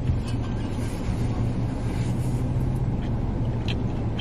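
Steady low hum and hiss of a car idling, heard from inside the cabin, with a small click near the end.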